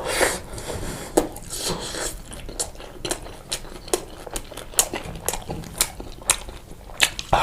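Close-miked chewing of pizza: many sharp, irregular mouth clicks and smacks.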